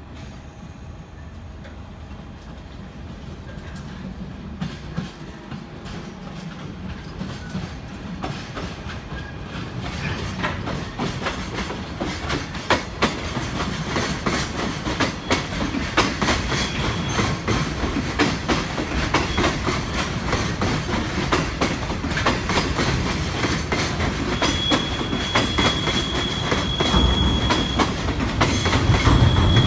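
Container freight wagons rolling over rail joints and points, their wheels clicking more densely and growing louder as the train comes closer. Near the end a high, steady wheel squeal sets in twice.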